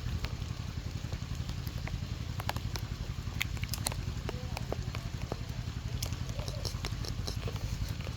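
A small engine running steadily with a low, fast-pulsing hum, with scattered light clicks and ticks over it.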